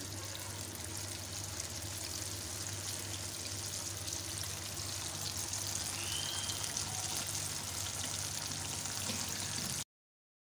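Flour-coated chicken breast pieces deep-frying in hot oil in a pan on a low flame, a steady sizzle. It cuts off suddenly near the end.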